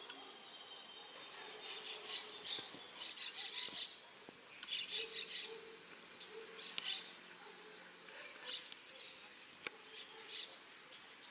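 Birds calling in several short bouts of quick, high chirping notes.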